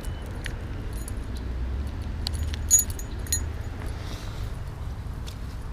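Wind buffeting the microphone as a steady low rumble, with scattered small metallic clicks and clinks from handled fishing tackle. The sharpest clink comes about halfway through.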